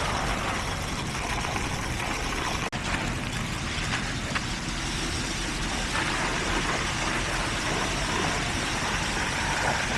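Heavy diesel construction machinery running steadily, with a brief dropout about three seconds in.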